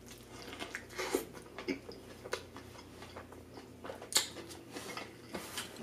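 Close-miked chewing of a mouthful of burger with lettuce: irregular soft mouth clicks and wet smacks, with a sharper crackle about four seconds in.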